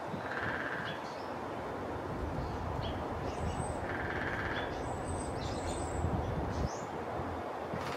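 Outdoor ambience: a steady wash of noise with scattered short, faint bird chirps. Two buzzy calls, each just under a second long, come near the start and about four seconds in, and a low rumble runs through the middle few seconds.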